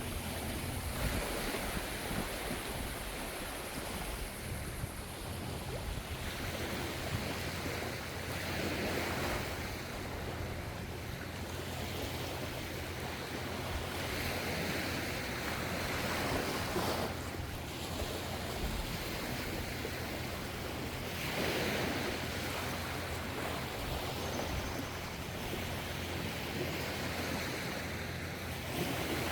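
Ocean waves breaking and washing onto the shore, a continuous surf hiss that swells with each wave every few seconds. A steady low rumble sits underneath.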